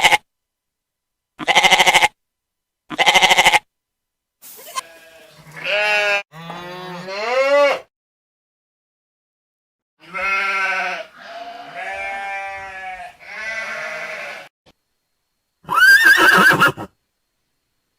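Livestock bleating: a series of separate calls with pauses between them, two short wavering bleats early, longer calls that rise in pitch in the middle, three more calls later, and a short higher call near the end.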